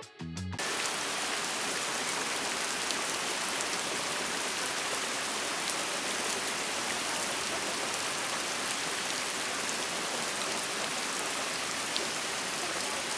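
Steady downpour of rain, an even hiss with the odd louder drop ticking through it.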